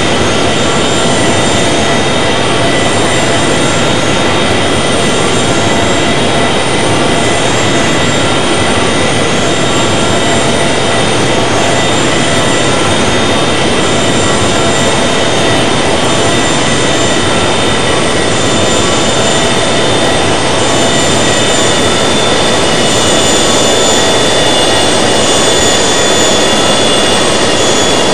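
Airbus A380's jet engines running steadily, heard from inside the cabin as a loud, even rush of noise with several steady whining tones over it.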